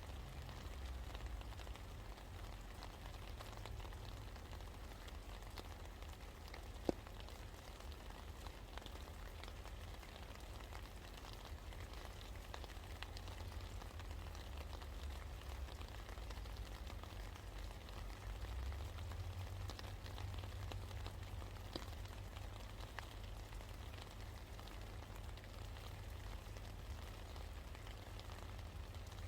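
Steady rain falling, a continuous hiss with scattered drop ticks over a low rumble, and one sharper tick about seven seconds in.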